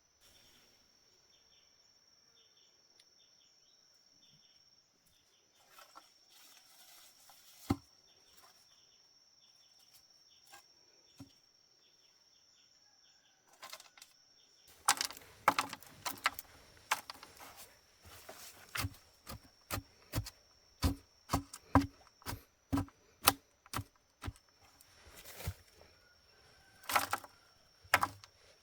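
Steady high-pitched insect drone with short cricket-like chirps. From about halfway, a run of sharp knocks or strikes, roughly one to two a second and unevenly spaced, becomes the loudest sound.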